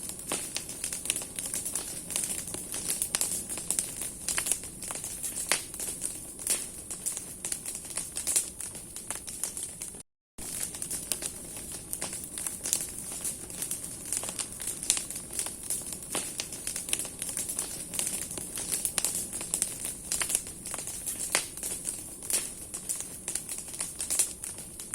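Bonfire of branches burning, with dense irregular crackling and popping over a steady hiss. The sound drops out completely for a split second about ten seconds in.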